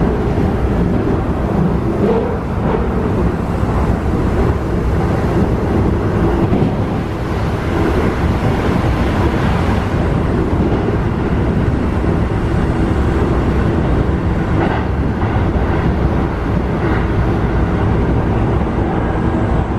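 Running sound heard inside a Keikyu New 1000 series electric train car with Toyo IGBT-VVVF traction: a steady rumble of wheels on rail and traction equipment at speed. A few sharper knocks come about three-quarters of the way through.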